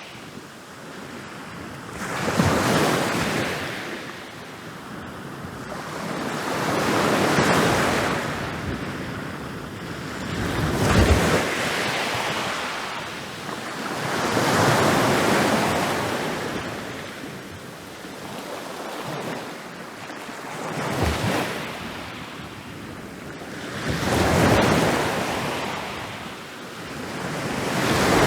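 Ocean waves rolling in and breaking on a beach, about seven in a row, each rising to a crash and washing away before the next.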